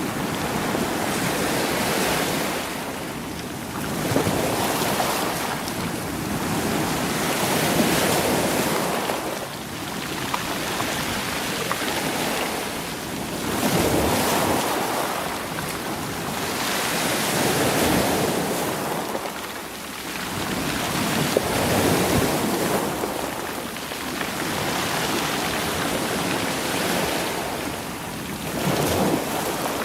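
Sea waves surging against a rocky shore and rolling the stones, swelling and easing in repeated surges every few seconds.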